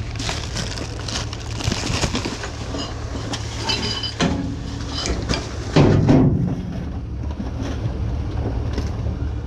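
Junk being handled and shifted in a dumpster: scattered knocks, clatters and scrapes, with a louder heavy thump about six seconds in, over a steady low rumble.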